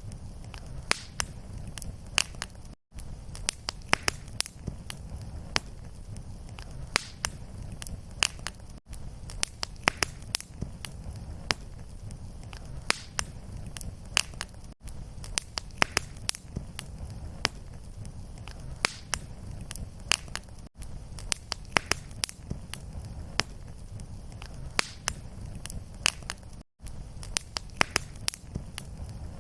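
Fireplace fire crackling, with frequent sharp pops over a low steady rumble. The sound cuts out briefly about every six seconds, where the fire recording loops back to its start.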